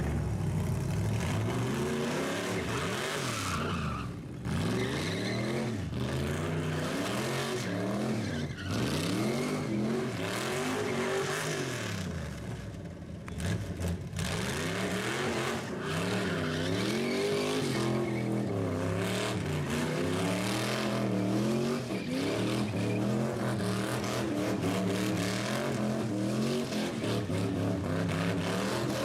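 A rat rod's engine revving hard during a burnout, its pitch swinging up and down every second or two, with the rear tires spinning and squealing on the pavement.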